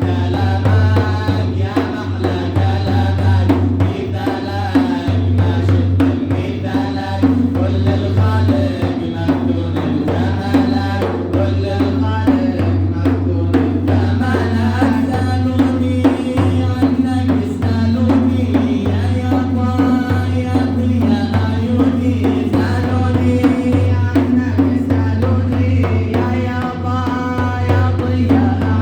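Sufi madih (devotional praise song) in Arabic: a voice singing a wavering, ornamented melody over steady drum beats and a low sustained hum.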